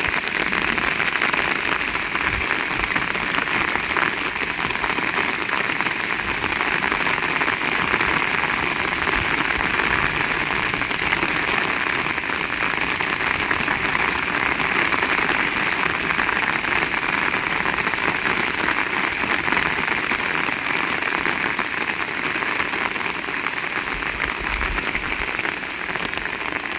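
Heavy rain falling steadily, a dense even hiss of drops that holds at the same level throughout.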